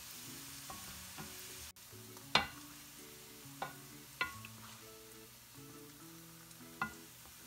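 Diced potatoes frying in oil with a steady sizzle, while they are stirred in the pan, with about four sharp clinks of a utensil against the pan, the loudest a little over two seconds in.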